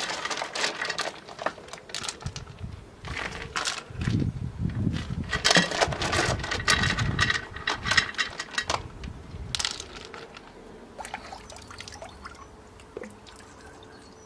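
Water pouring and splashing in uneven gushes, heaviest in the middle and tailing off to a few drips and splashes near the end.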